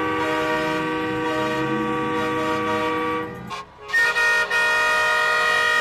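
Vehicle horns sounding in long held blasts: a sustained chord of horn tones breaks off about three and a half seconds in, and a second, higher-pitched horn blast starts about a second later and holds on.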